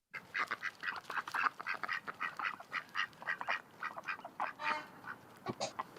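Duck quacking in a rapid run of short calls, about three or four a second, stopping shortly before the end.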